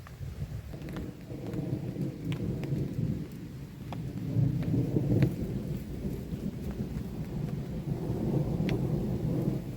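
Rolling thunder rumbling low, swelling to its loudest about halfway through and again near the end, over steady rain, with scattered single raindrops ticking sharply on a tarp overhead.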